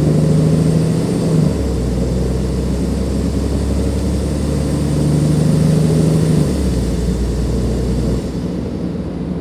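Cummins ISLe diesel engine of a Dennis Enviro 500 double-decker bus pulling under load, with a faint high turbo whistle over the engine note. The engine note shifts about a second and a half in and again about six and a half seconds in. It then drops quieter near the end and the whistle fades.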